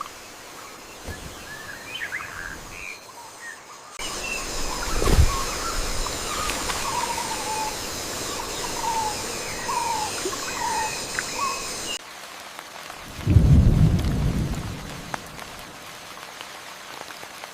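A thunderstorm: steady rain, with a low thunder clap about five seconds in and a long low rumble of thunder near the end. Birds give short repeated calls through the rain in the middle.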